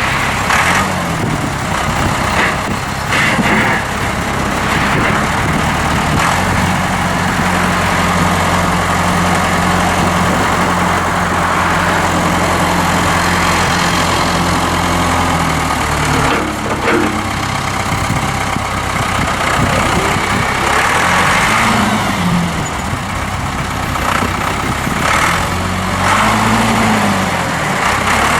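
A 1995 Ford New Holland 5030 tractor's four-cylinder diesel engine running. It holds a steady speed for a long stretch, then revs up and back down a few times near the end.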